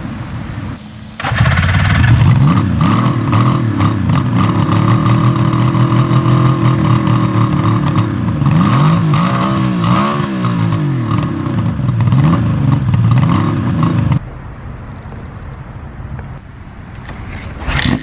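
Large 1970s motorcycle engine catching about a second in and running, blipped up and down a few times in the middle, then cutting off abruptly near the end to a quieter engine sound before another rev.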